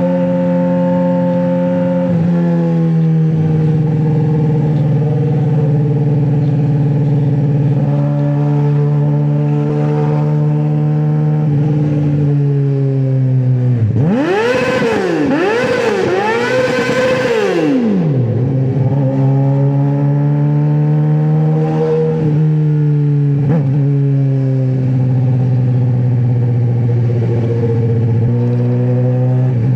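2009 Suzuki GSX-R600 inline-four running loud through a straight-pipe exhaust, holding a steady pitch that slowly sags lower. About halfway through it revs up and falls back three times in quick succession, then settles to a steady pitch again.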